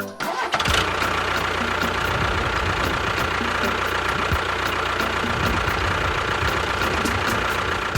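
A tractor-type engine running steadily, cutting in abruptly just after the start and cutting off abruptly at the end.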